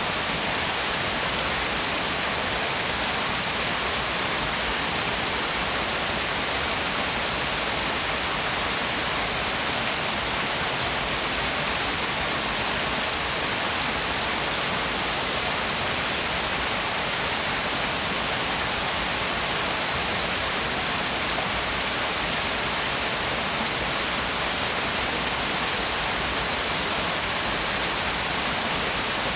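Waterfall: a steady, unbroken rush of falling water, with most of its weight in the hissing upper range.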